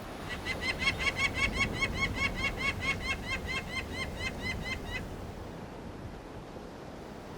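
Peregrine falcon calling: a rapid, even series of short, harsh notes, about five a second, that stops about five seconds in. A low rushing background runs throughout.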